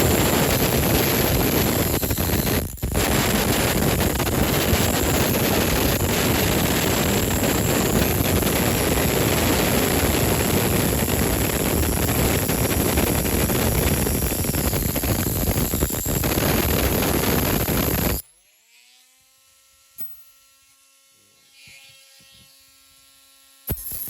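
Small high-speed rotary tool grinding into a diecast metal model car body, a steady high whine over dense grinding noise. It switches off about 18 seconds in, its motor whining down, and starts grinding again just before the end.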